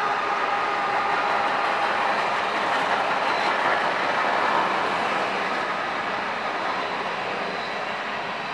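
Freight train cars rolling past with steady wheel-and-rail noise. A held tone fades out about two seconds in, and the noise eases slightly toward the end.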